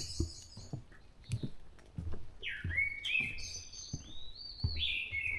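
Dawn chorus of songbirds, with short whistled song phrases, the clearest about halfway through and again near the end. Soft low thumps sound underneath at a steady pace of about two a second.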